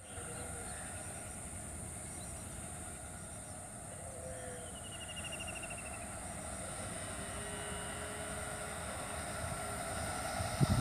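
Distant electric-locomotive-hauled express train approaching: a faint, steady rumble and hum that slowly grows louder. A loud low thump breaks in right at the end as the train nears.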